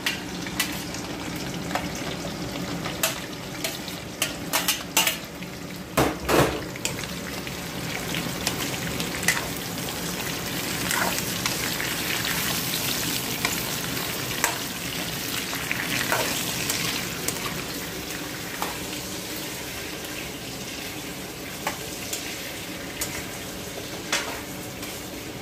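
Chunks of pork sizzling in hot oil with fried onions in a frying pan, while a metal spoon clinks and scrapes as the meat is pushed off a plate into the pan and stirred. The clinks come thickest in the first several seconds, then the steady sizzle carries on with occasional scrapes of the spoon.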